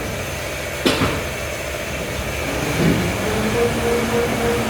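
Automatic pull-out tissue folding machine running with paper fed through it, a steady mechanical clatter with one sharp click about a second in and a steady low hum coming in after about three seconds.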